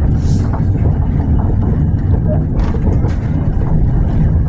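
Tram running on its rails: a steady low rumble from the motors and wheels, with a couple of faint clicks a little past the middle.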